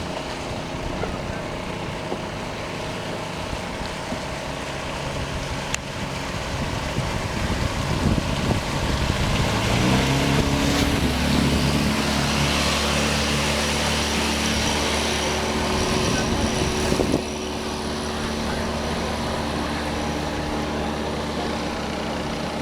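9.9 hp outboard motor, 220 cc, driving a hydrofoil catamaran: steady running at first, then about ten seconds in the engine pitch steps up and the rush of water and wind grows louder as the boat speeds up, easing back somewhat later on.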